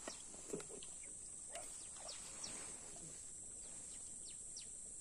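Faint outdoor ambience with a small bird calling in short, high, falling chirps, repeated every half-second or so, over a steady high hiss.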